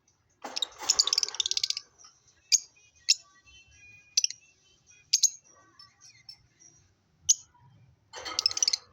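Lovebirds calling: a burst of rapid, shrill chattering near the start and another near the end, with single sharp, high chirps every second or so in between.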